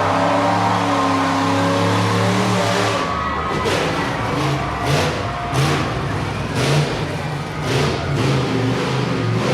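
Monster truck engine revving: held at a steady high note for about three seconds, then blipped in a run of short, loud throttle bursts.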